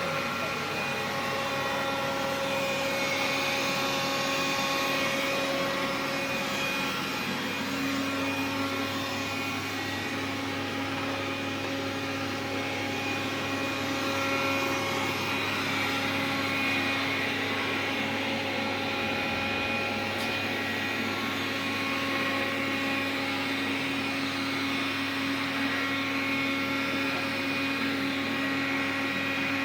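Xiaomi vacuum cleaner running steadily: a hum and whine made of several steady tones over a broad rush of air. About eight seconds in, a lower hum comes in as a higher tone fades. It is recorded as a unit with an extraneous noise.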